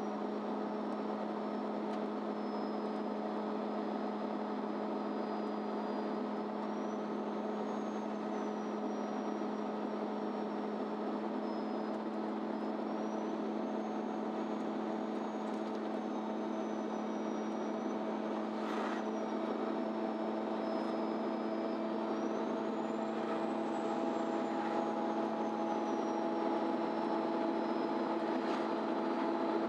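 Interior sound of a MAN Lion's City Ü bus running, a steady engine note with a high whine that rises and falls several times, and a few brief clicks.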